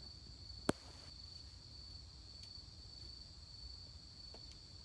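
Crickets trilling steadily in one unbroken high tone on an autumn night, with a single sharp click a little under a second in.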